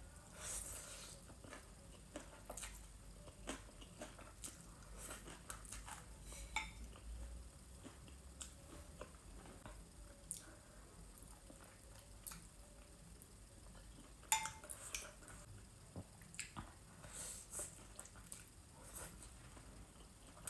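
Eating sounds from an octopus dish: utensils clicking and scraping against a bowl now and then, with soft chewing in between.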